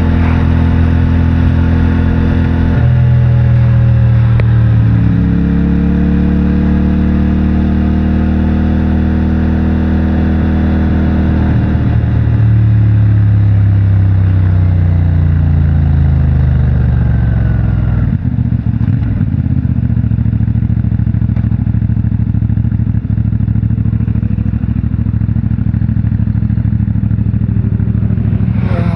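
CFMOTO 450MT's parallel-twin engine on its stock exhaust, running under way. The revs change about three seconds in, climb and then fall away through the middle, and it slows down before settling into steadier, lower running for the last part.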